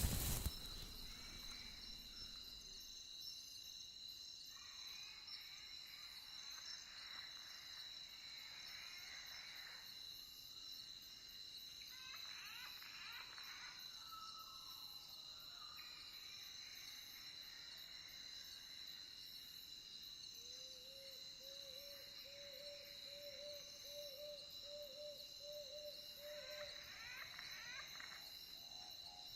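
Faint night chorus of crickets, a steady high trill, with a few bird calls scattered through it and, about two-thirds of the way in, a run of short low calls repeating about twice a second.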